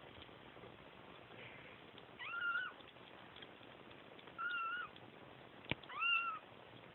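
Kitten meowing: three high, drawn-out cries about two seconds apart, the crying of kittens calling for their mother. A sharp click comes just before the third cry.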